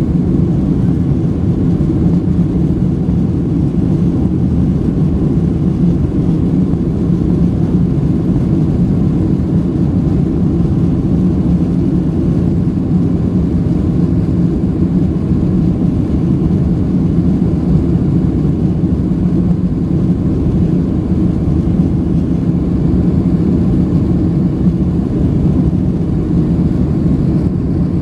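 Steady, loud cabin noise of a Boeing 767-300's jet engines and rushing air, heard from inside the passenger cabin, mostly a low, even rumble that neither rises nor falls.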